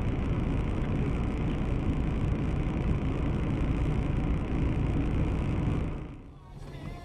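Steady road and engine noise of a moving car. It drops away sharply about six seconds in.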